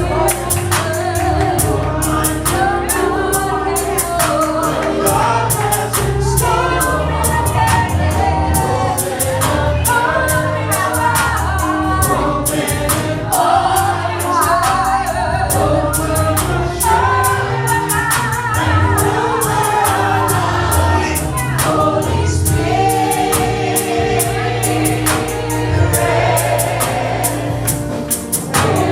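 Gospel worship music: a choir and congregation singing over a live band with bass and a steady drum beat.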